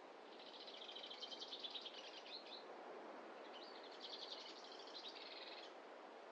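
A songbird singing two quick trilled phrases of rapid repeated notes, each about two seconds long, over a faint steady hiss of background noise.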